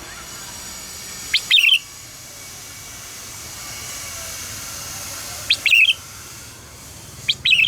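Red-whiskered bulbul singing three short phrases, each a quick note followed by a warbled burst, a few seconds apart, over a steady hiss.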